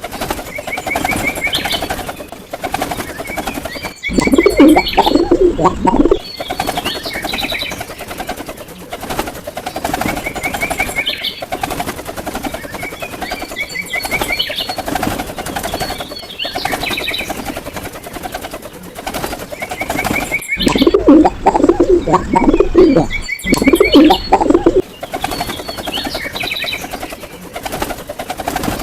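Birds calling: short high chirps recur throughout, and a louder low cooing call comes twice, about 4 and 20 seconds in. The same sequence repeats about every 16 seconds, as a looped recording would.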